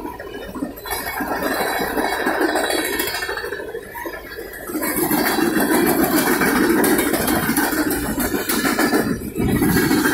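Freight cars of a passing CSX manifest train rolling by: steel wheels running on the rails, with the cars rattling and clinking. It eases about four seconds in, then gets louder again from about five seconds in.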